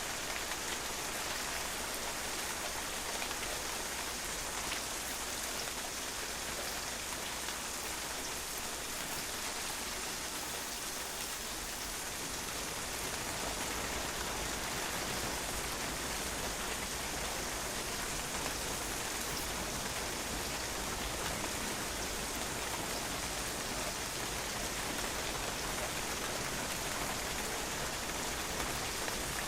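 Steady rain falling and drops spattering on a patio, an even, unbroken hiss of many small impacts.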